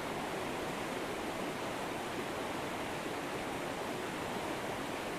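Flowing river water rushing steadily and evenly, with no splashes or changes.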